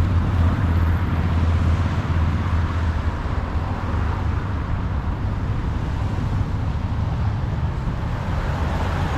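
Steady low rumble and hiss of road traffic, a little louder in the first couple of seconds.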